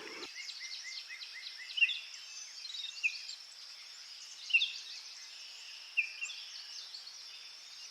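Bird calling: a quick run of short chirps, then scattered single chirps, over a steady high background hiss.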